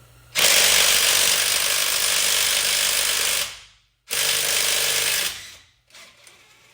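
Handheld power tool working on a truck's rusty wheel stud and lug nut, run in two bursts: one of about three seconds, then a shorter one of about a second after a brief pause.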